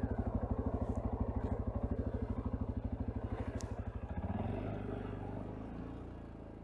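CFMoto CForce ATV's single-cylinder engine idling with an even, rapid low pulse. About four seconds in, the pulsing gives way to a smoother low hum that slowly fades away.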